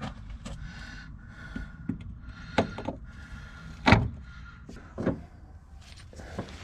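Scattered knocks and clicks of hand tools and metal parts being handled during work on a car's rear suspension, with one louder knock about four seconds in.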